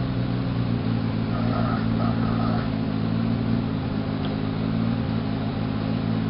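A vehicle engine idling steadily at an even, unchanging pitch.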